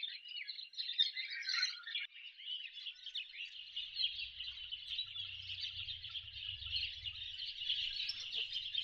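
Cockatiels calling: a dense, continuous chatter of many high calls overlapping, with a faint low rumble joining about four seconds in.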